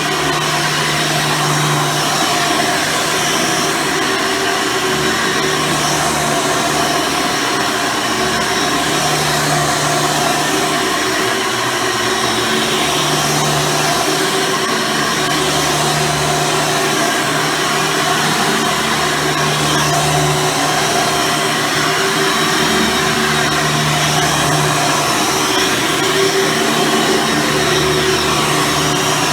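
Hoover Soft & Light Supreme upright vacuum cleaner with its 12-amp motor running steadily while being pushed and pulled over the floor, a low hum in its drone coming and going every few seconds.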